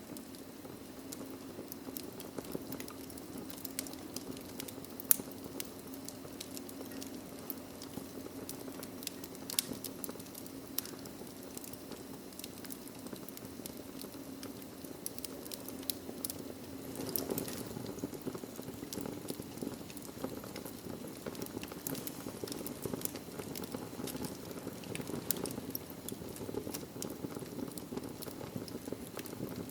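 Wood fire burning in a fireplace: a steady low rush of flame with frequent small crackles and pops, one sharper pop about five seconds in.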